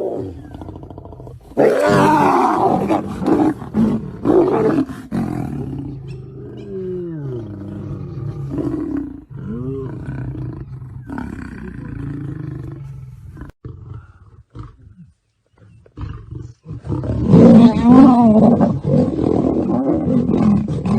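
Lions roaring in a long bout of deep roars that rise and fall in pitch, dropping away for a few seconds about two thirds of the way through, then louder again near the end.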